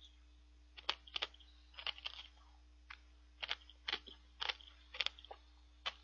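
A person chewing a mouthful of frozen shaved ice (bingsu) close to the microphone: about a dozen short, sharp crunches, irregularly spaced.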